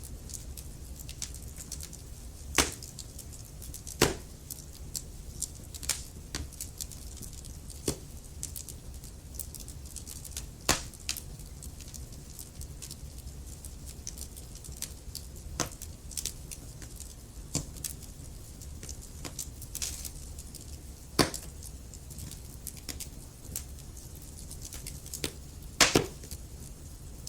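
Logs burning in a fireplace, crackling with irregular sharp pops and snaps over a steady low background of the fire. A handful of much louder pops stand out among the small crackles.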